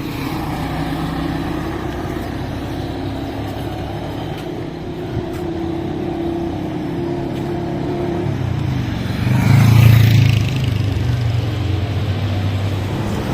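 Road traffic: motor vehicle engines running steadily, with one vehicle passing close and louder about nine to ten seconds in.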